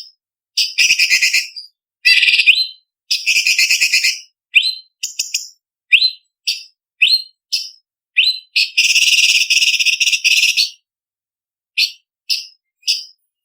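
Orange-bellied leafbird (cucak cungkok) singing: short, sharp, upward-sweeping whistled notes alternating with rapid rattling chatters, the longest chatter lasting about two seconds past the middle.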